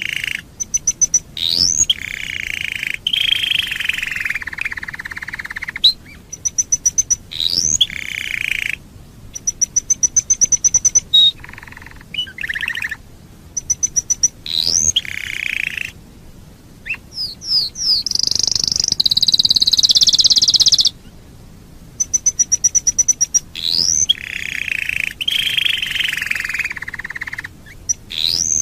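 Domestic canary singing continuously: fast ticking trills, quick rising whistles and longer rolling warbles, phrase after phrase with short breaks, the same sequence coming round again several times.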